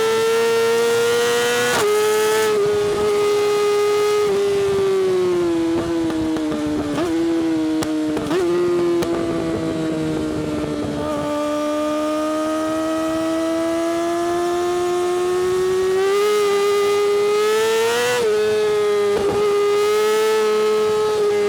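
Yamaha R6's 600cc inline-four, through an Akrapovic exhaust, running at high revs on the move. The pitch sags slowly and climbs again, with a few quick jerks in pitch about two seconds in, around seven and eight seconds, and near the end.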